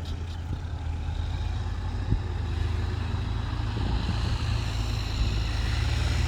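Dump truck's diesel engine running steadily, growing a little louder, as the truck tips its bed to unload soil.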